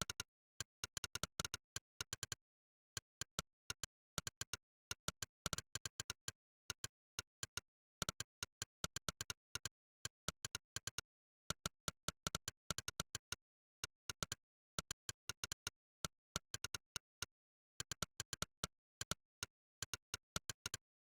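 Monkeytype's synthetic 'click' keystroke sound, one sharp click per key pressed, in quick runs of several clicks a second with short pauses between words, and dead silence between the clicks.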